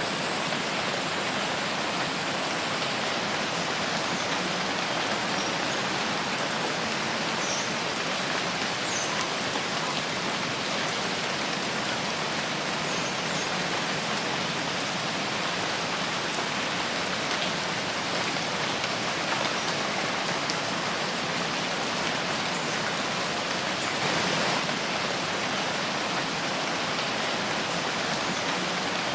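Steady rain falling in a forest, an even hiss of many drops, briefly a little louder about 24 seconds in.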